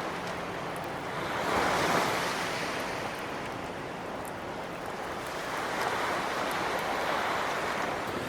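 Ocean waves washing onto the shore, the surf swelling about two seconds in and again near the end.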